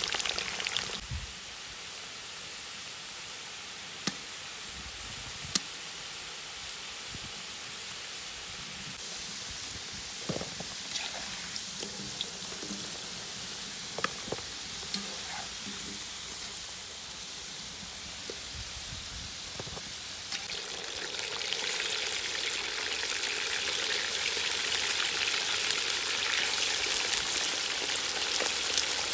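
Food frying in hot oil in a cast-iron kazan over a campfire: a steady sizzle with a few sharp clicks. About two-thirds of the way through, the sizzling swells louder and denser.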